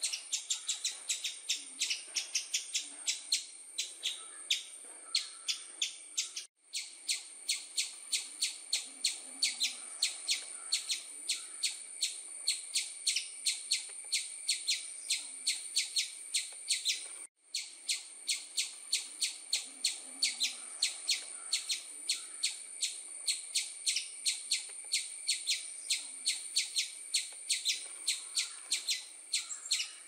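Bird chirping in a fast, even series of short high chirps, about three a second, broken twice by a brief gap.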